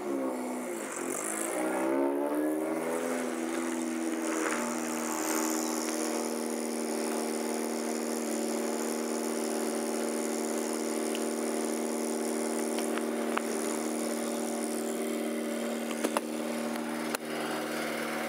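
An old Wolseley car's engine running. Its speed dips and climbs back in the first few seconds, then it idles steadily, with a few sharp clicks near the end.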